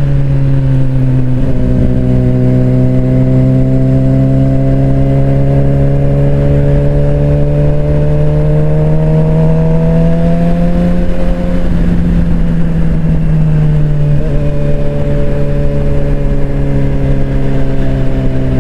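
Suzuki GSX-R600 inline-four engine running under way, its pitch climbing slowly as the bike gathers speed, then dropping a little about eleven seconds in and holding steady. Low wind rumble on the microphone underneath.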